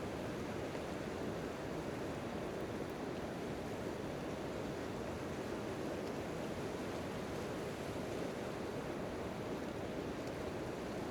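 Steady rain falling on a tent tarp.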